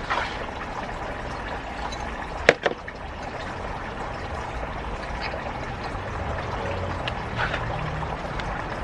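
Steady trickle of running water, with one sharp knock about two and a half seconds in.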